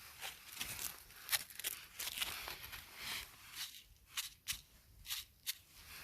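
A series of short, crisp snips and crunches at an irregular pace, several a second, with a few sharper clicks in the second half.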